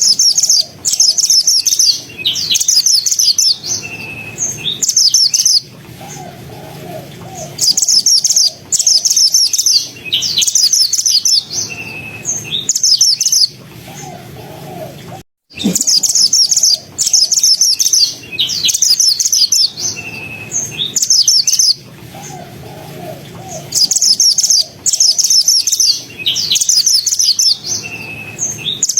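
Mantenan (pied bushchat) song: loud, rapid, high-pitched chattering phrases repeated with short pauses between them. There is a brief break about halfway through, after which the same sequence of phrases starts again.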